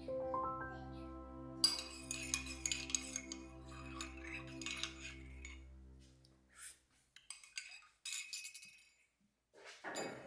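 Cutlery and dishes clinking in quick light taps, over soft background music that fades out about six seconds in.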